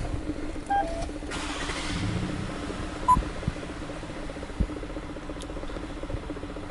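Toyota Alphard 350S's 3.5-litre V6 idling steadily just after start-up. Short electronic beeps sound under a second in and again about three seconds in, and two sharp thumps come about three and four and a half seconds in.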